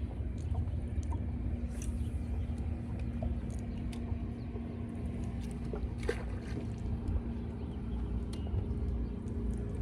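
A boat motor's steady low hum and rumble, with scattered small clicks and knocks over it.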